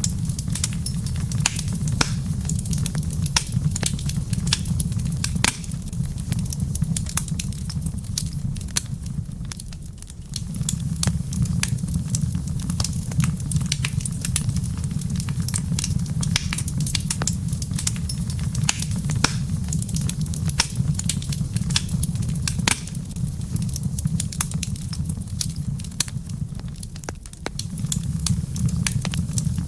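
Wood fire crackling in a fireplace: a steady low rumble under many sharp pops and snaps. The rumble drops away briefly about ten seconds in and again near the end.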